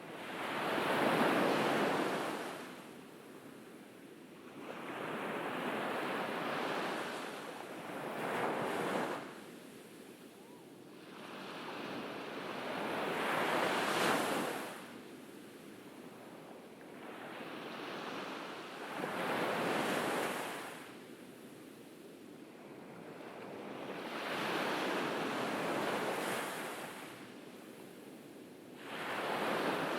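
Ocean waves breaking and washing up on a beach, a surge about every five to six seconds, each swelling and then drawing back.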